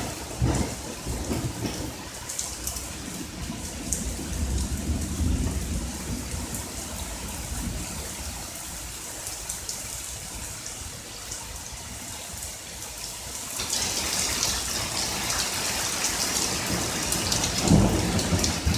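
Thunderstorm: steady rain falling with low rolling thunder. The thunder rumbles for a couple of seconds early on, the rain grows heavier about two-thirds of the way through, and a loud clap of thunder comes near the end.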